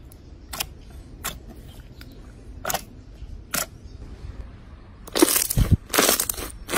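Slime being handled for ASMR: four separate sharp pops spaced about a second apart, then from about five seconds in, louder dense crackling squishes.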